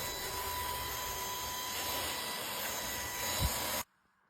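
Cordless stick vacuum cleaner running, a steady rushing motor noise with a thin high whine over it and a brief low thump near the end; the sound then cuts off abruptly.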